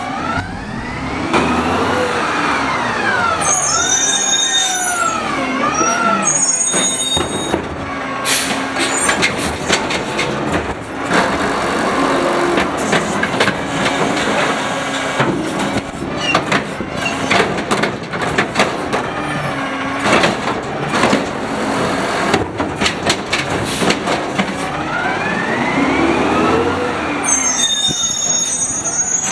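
Automated side-loader garbage truck working a cart: a whine rises and falls in pitch as the arm cycles, with brief high squeals, then a stretch of knocking and clattering as the cart is emptied into the hopper, and the rising-and-falling whine and squeals come again near the end. The truck runs an idle-arm, so the arm works without the engine revving.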